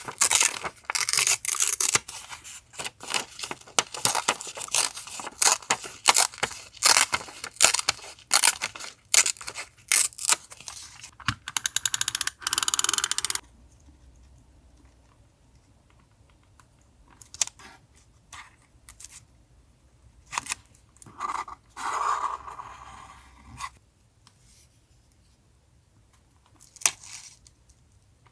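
Paper and stickers being handled for a journal collage: dense, rapid crinkling and tearing for about the first half, ending in a steadier tear, then only scattered soft rustles and one longer tear or peel about two-thirds of the way in.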